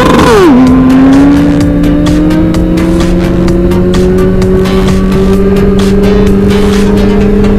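Motorcycle engine shifting up a gear just under half a second in, then pulling through the gear with its pitch rising slowly as the bike accelerates. A second, steady engine tone holds underneath.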